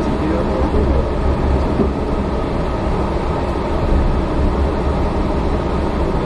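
Yurikamome rubber-tyred automated guideway train running, a steady low rumble of its rubber tyres on the concrete guideway.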